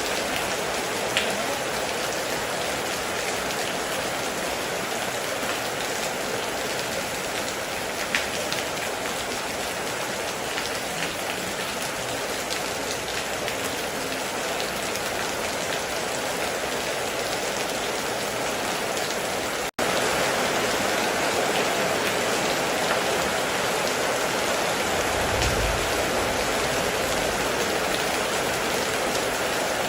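Heavy rain falling steadily, with a few sharp drop ticks. It cuts out for an instant about two-thirds through and comes back a little louder, and there is a short low rumble near the end.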